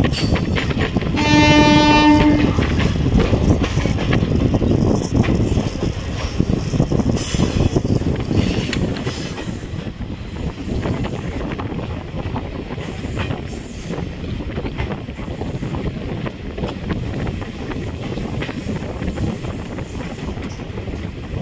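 Diesel-hauled passenger train running, heard from an open coach window: steady wheel rumble and clacking over the rail joints, with wind. About a second in, the locomotive's horn sounds once for about a second, and it is the loudest sound.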